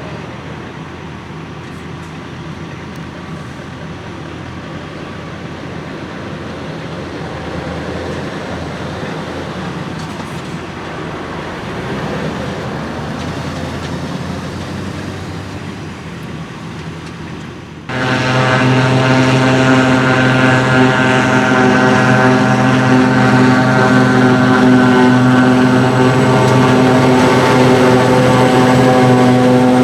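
Heavy diesel harvesting machinery working in a grass silage harvest. About two-thirds of the way in, the sound jumps abruptly to a louder, steady, high-revving engine drone with a strong hum.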